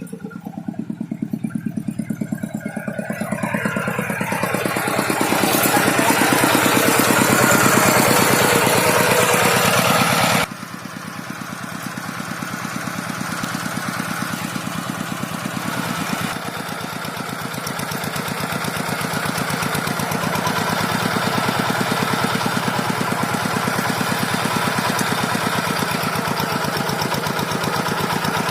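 Tractor engine running with a fast, even beat. It grows louder over the first several seconds, drops off suddenly about a third of the way in, then runs on steadily.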